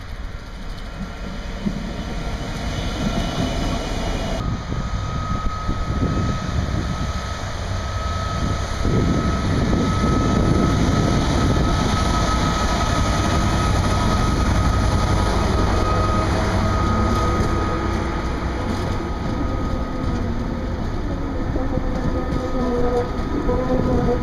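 Class 66 diesel-electric locomotive, with its two-stroke V12 diesel engine running, approaching and passing, louder as it nears, with a steady high whine through its passing. It is followed by container wagons rolling by with a steady rumble and clack of wheels on the rails, and a faint wavering squeal near the end.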